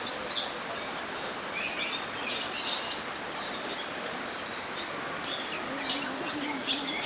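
Birds of mixed species in a walk-through aviary, chirping and calling: a steady run of short, high tweets over a constant background hiss.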